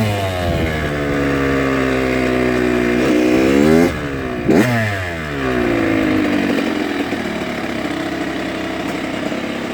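Dirt bike engine under throttle. Its pitch dips, then climbs to about four seconds in and drops off sharply. A quick rev blip follows, then the engine winds down and settles into steadier, lower running.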